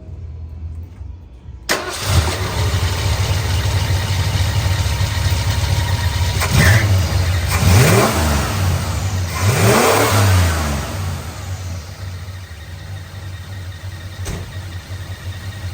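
Cold start of a 1977 Ford F-150's V8 engine: it fires up suddenly about two seconds in and runs. It revs up and back down three times, then settles to a steady idle, with a single sharp click near the end.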